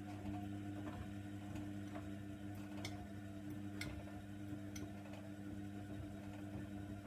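Hoover Nextra washer dryer's drum motor running with a steady hum, the load turning in the drum with scattered light clicks and taps.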